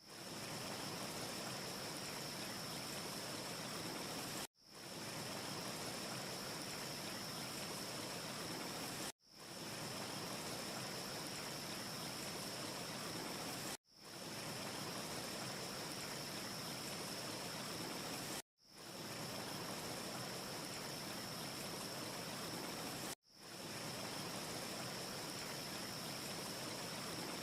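Steady rushing, hiss-like ambience noise with a thin high-pitched tone running through it. It cuts out completely about every four and a half seconds, five times in all, and fades back in each time: a short loop repeating. No fire crackles stand out.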